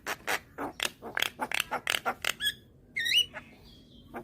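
Young Javan myna calling: a quick run of harsh chattering notes for about two and a half seconds, then after a short pause a whistled, warbling note near the end.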